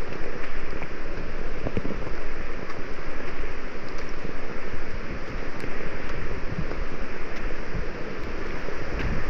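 Steady rain falling, an even hiss with a dense low rumble on the microphone.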